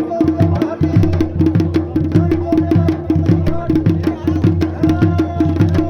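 Traditional dhol and damau drumming playing a fast, steady, driving rhythm of many strokes a second, the accompaniment to the Pandav dance.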